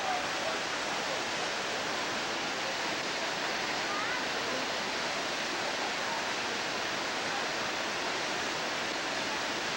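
Waterfall's water rushing steadily, with a few faint short chirps over it.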